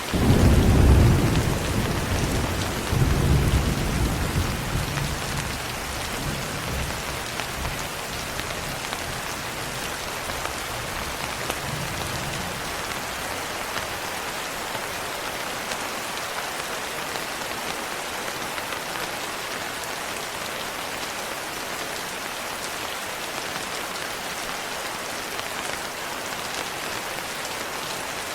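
Steady heavy rain, with a thunder rumble that breaks in at the start, swells again about three seconds in and dies away over the next several seconds, leaving only the rain.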